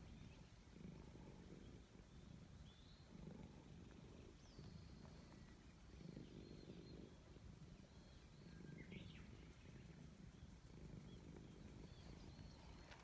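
Domestic cat purring close up while being petted, a faint low purr that swells and fades about once a second. Birds chirp faintly in the background.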